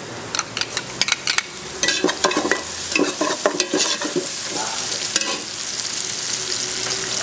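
Sliced onions and chopped garlic frying in sunflower oil in an aluminium pressure cooker, sizzling as a metal ladle stirs and scrapes against the pot with sharp clinks. The sizzle grows louder about halfway through.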